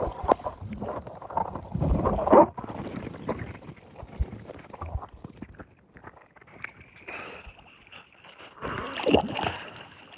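River water rushing and splashing, with irregular knocks and swells. A faint steady high tone comes in about seven seconds in.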